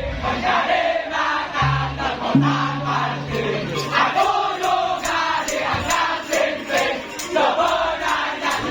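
Crowd of many voices shouting and chanting together over music, with a steady low bass note through the first half.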